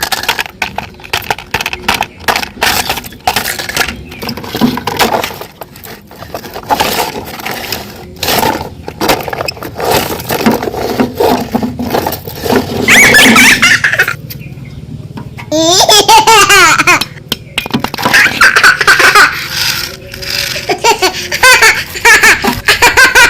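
A baby or young child laughing in bursts, over many sharp clicks and knocks.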